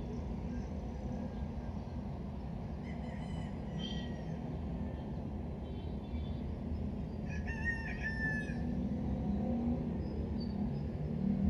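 A rooster crowing twice, each crow about a second long, over a steady low rumble.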